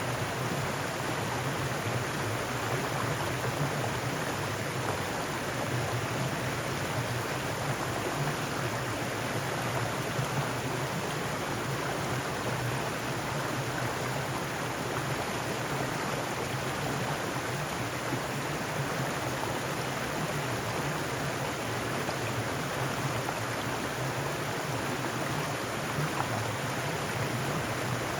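Mountain stream flowing over rocks, a steady rushing and splashing of water.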